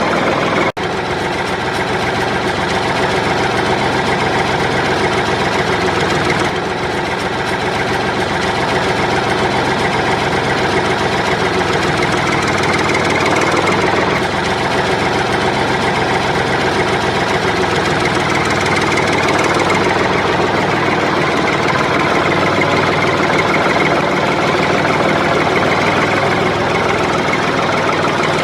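A miniature model tractor running steadily with an engine-like sound that keeps an even pace. It breaks off for a split second just under a second in.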